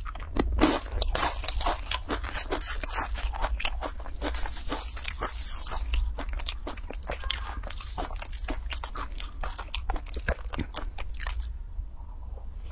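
Close-up crunching and chewing of dry, crispy instant-noodle snack crumbs: a dense run of quick, crackly crunches that thins out and softens about a second before the end.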